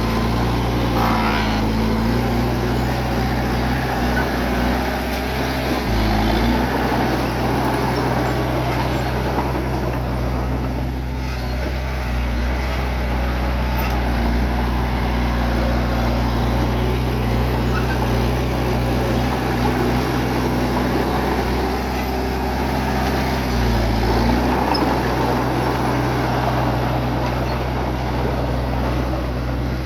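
Bulldozer's diesel engine running under load, with a rough, noisy clatter over it. The engine pitch shifts briefly about a second in, around six seconds in, and again around twenty-four seconds in.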